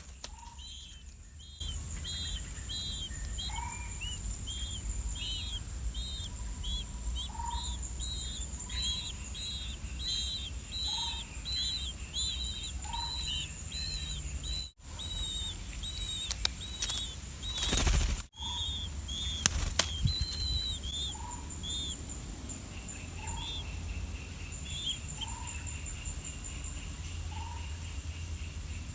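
Blue-winged pitta chicks giving short, high begging calls over and over, about two a second, as they wait to be fed. A lower call repeats every couple of seconds underneath. About 17 seconds in there is a brief, loud burst of noise.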